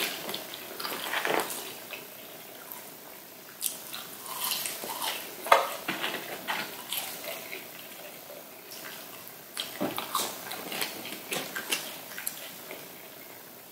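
Close-miked wet chewing, lip smacks and finger-licking of a person eating McDonald's French fries, an irregular run of small crackles and clicks with one sharper snap about halfway through.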